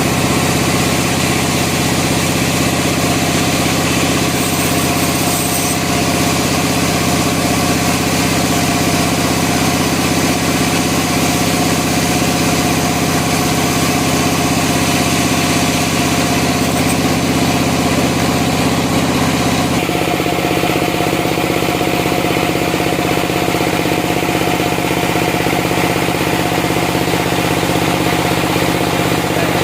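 Sawmill engine running steadily under a constant load. Its tone changes abruptly about twenty seconds in.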